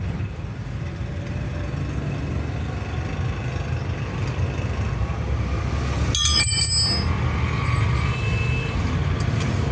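Steady low engine rumble, with a brief cluster of sharp metallic clinks that ring high about six seconds in.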